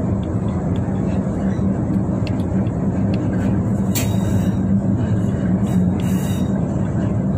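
Pingxi Line diesel railcar heard from inside at the rear of the train: steady engine hum and wheels running on the rails. Two brief high bursts of noise come about four and six seconds in.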